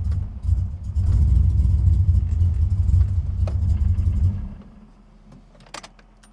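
LS3 V8 engine running unevenly under light throttle, then dying away about four and a half seconds in, leaving it quiet. The untuned engine is running on ethanol while the ECU is set for pump gas, so it is fuelled too lean, as the driver had suspected.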